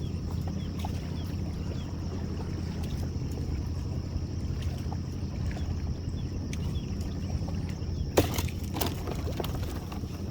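A boat's motor running steadily at low speed, a low hum, with small scattered clicks. There is a sharp knock about eight seconds in.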